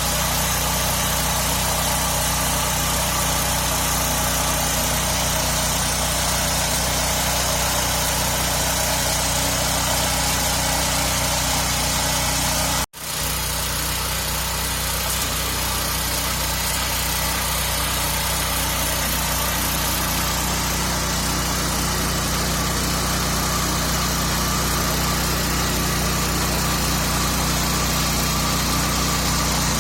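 Walk-behind tractor engine running steadily, with a momentary dropout about halfway through.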